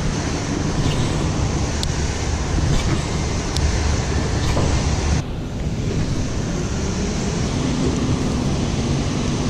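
Steady rush of river water pouring over rocky falls, a continuous noise with a deep rumble underneath. A few faint clicks sound over it, and it dips briefly about five seconds in.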